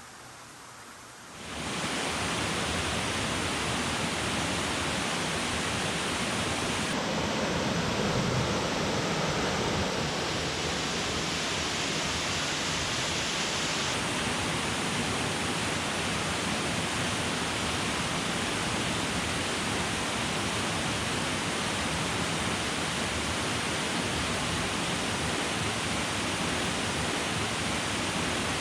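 Waterfall rushing: a steady, even roar of falling water that comes in about a second and a half in, shifting slightly in tone a few times.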